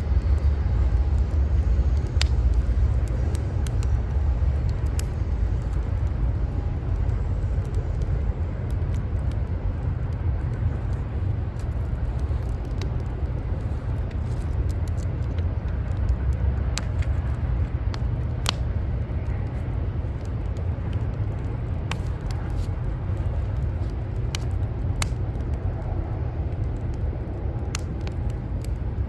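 Wood fire crackling, with sharp pops every few seconds over a steady low rumble of city traffic.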